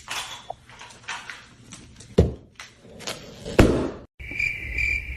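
A run of sharp knocks and thumps, then, after a sudden break about four seconds in, a steady high-pitched chirping that pulses about twice a second.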